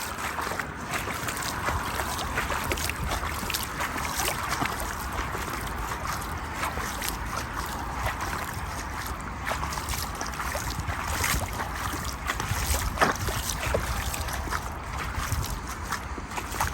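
Gusty wind rumbling on the microphone over an even wash of moving water, with many small sharp taps of rain and splashing scattered throughout.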